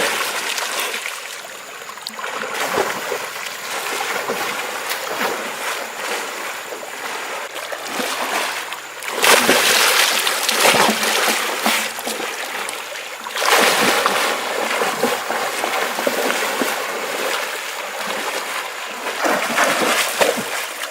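Water splashing and trickling, with louder stretches of heavy splashing about nine seconds in, again around fourteen seconds, and briefly near the end.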